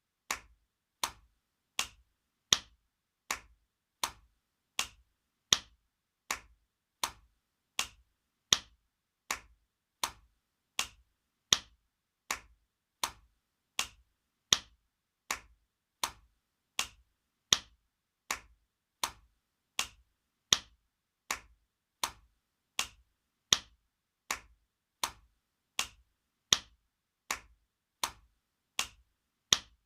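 Spanking sound effect: sharp slaps of a hand, repeating evenly about every three-quarters of a second in a loop. Every fourth slap is louder.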